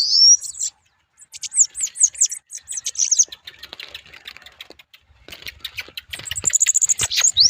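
A bananaquit singing its high, thin, rapid song of quick sweeping notes and buzzy trills, in bursts with a short break about a second in and a lull around the middle.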